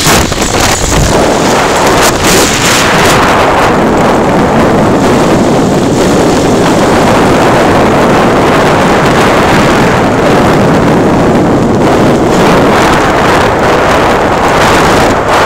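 Steady loud wind rush on the microphone from riding a motorcycle at road speed, the vehicle's running noise buried under it.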